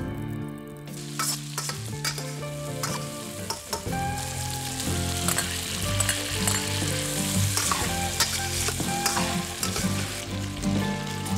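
Chicken pieces sizzling as they stir-fry in a stainless steel wok, with a slotted metal spatula scraping and clicking against the pan. The sizzle grows louder partway through as more chicken is tipped into the hot wok.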